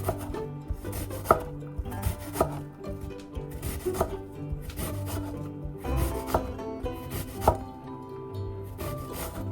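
Knife chopping food on a cutting board: irregular sharp knocks with scraping between them, the loudest about a second in and near the end.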